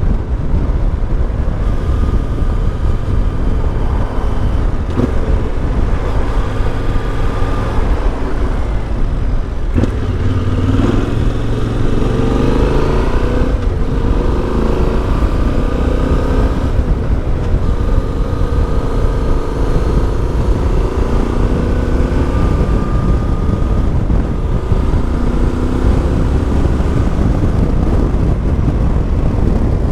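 Yamaha Ténéré 700's CP2 parallel-twin engine running through an Akrapovic exhaust while the bike is ridden, the revs rising and falling several times, most markedly about ten to sixteen seconds in.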